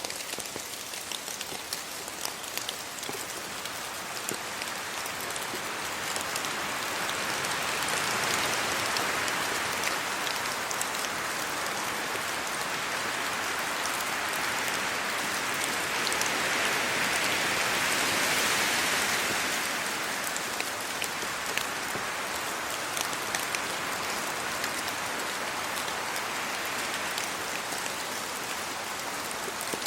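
Steady rain falling on trees, leaves and a road, with many sharp drop ticks over an even rush. The rush swells louder about a quarter of the way in and again just past the middle, then eases.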